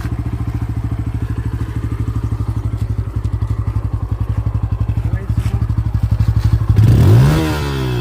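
Bajaj Pulsar N160's single-cylinder engine idling with a steady, even beat from its exhaust. Near the end the throttle is blipped, and the exhaust note rises sharply and falls back.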